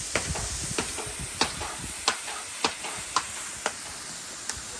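Steady rushing hiss of a waterfall, with sharp short clicks or taps about every half second standing out above it.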